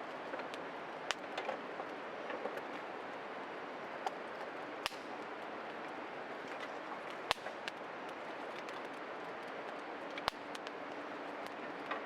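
Small wood fire burning in a portable fire pit: a steady hiss with sharp crackles and pops at irregular intervals, the loudest three about five, seven and ten seconds in.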